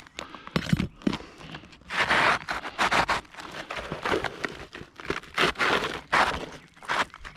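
Asphalt roof shingles being lifted and handled, giving irregular bursts of scraping and crinkling.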